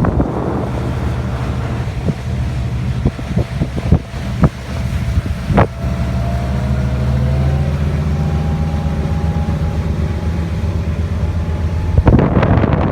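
Boat motor running steadily as a low hum, with wind buffeting the microphone in a few sharp knocks and a stronger gust near the end.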